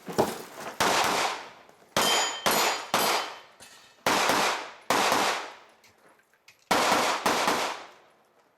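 A pistol-caliber carbine fired in quick strings, about nine shots in pairs and a triple, with steel targets clanging and ringing on hits about two seconds in.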